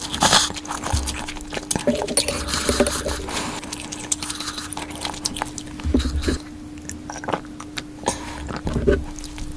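Close-miked chewing and mouth sounds of someone eating cup noodles, made up of many small wet clicks and a few soft low thuds, over a faint steady hum.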